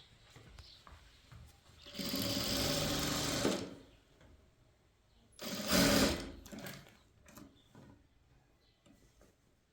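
Sewing machine stitching in two short runs: one of about a second and a half starting two seconds in, then a shorter run a little past the middle. Small clicks come between and after the runs.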